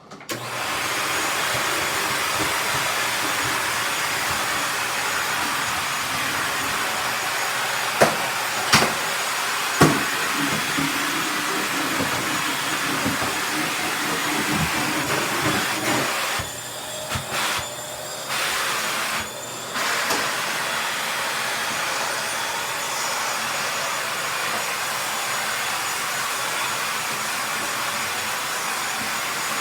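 Bissell 3-in-1 stick vacuum switched on and running steadily over the floor. A few sharp knocks come about 8 to 10 seconds in, and the motor noise drops briefly several times a little later.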